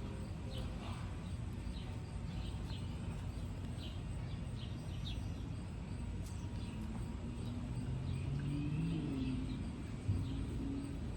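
Steady low background rumble with faint, short high chirps scattered through it, and a single light knock about ten seconds in.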